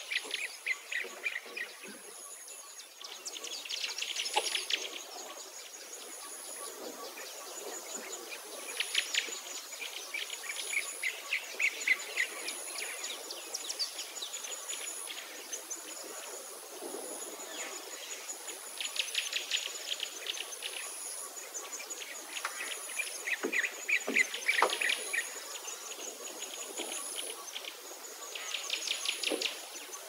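Birds singing in bursts of rapid trills every few seconds, over a faint high chirp that repeats evenly about once a second.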